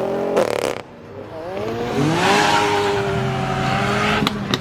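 A car engine accelerating as it drives off: the pitch climbs, then holds steady while it pulls away. Two sharp clicks come near the end.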